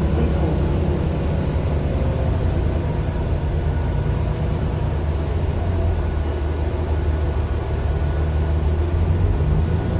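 Mercedes-Benz Citaro LE city bus's Daimler OM 457 hLA straight-six diesel running with a steady low hum, getting slightly louder near the end.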